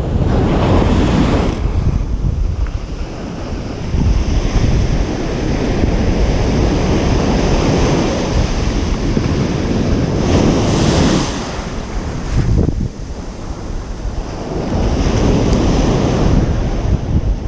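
Ocean surf on a beach: waves break and wash in over and over, in several swelling surges, the strongest about ten seconds in, over a constant low rumble.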